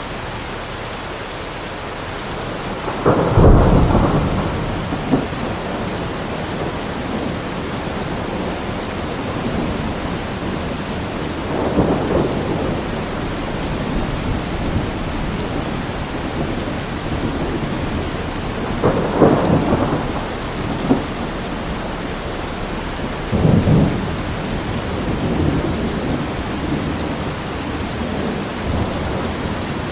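Steady rain falling in a thunderstorm, with several rolls of thunder rumbling through it; the loudest comes about three seconds in, with further rumbles around the middle and in the second half.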